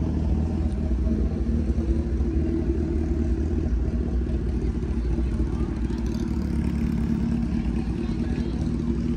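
Car engine running steadily at an even pitch.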